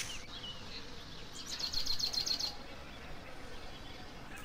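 Birds chirping in the background, with a quick trill of rapid high chirps lasting about a second near the middle, over a faint steady hiss.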